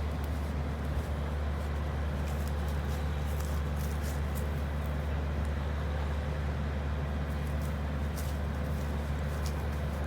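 A steady low rumble, like a running engine or road traffic, with scattered faint clicks.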